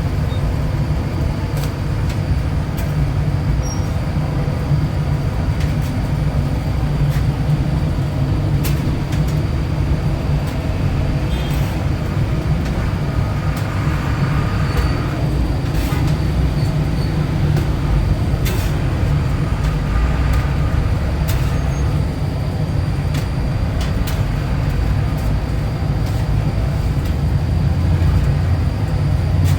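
Motorcycle running steadily on the road: a continuous low rumble at an even level.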